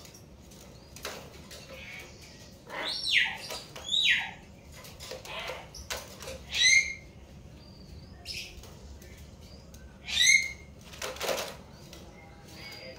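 Hill mynas giving loud, sharp calls that drop in pitch, in a string of separate calls, with the loudest about three and four seconds in and again near seven and ten seconds in. There is wing flapping among the calls.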